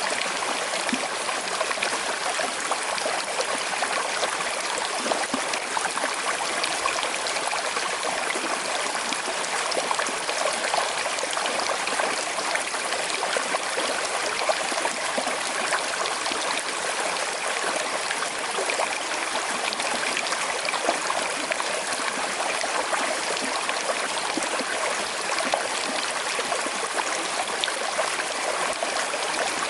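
Small river with a slight current flowing, a steady rush of water with no breaks.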